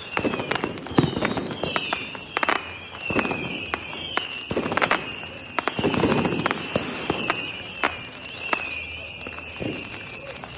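Fireworks going off in quick succession: many sharp bangs and crackles over repeated deep booms. Through it all, high whistles glide down in pitch over and over.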